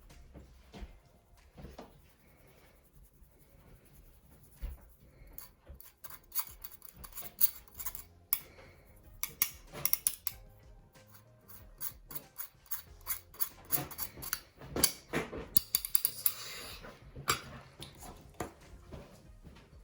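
Spoon scraping and clinking against a bowl while dry cake ingredients are spooned in: irregular clicks and scrapes, sparse at first and busier from about six seconds in.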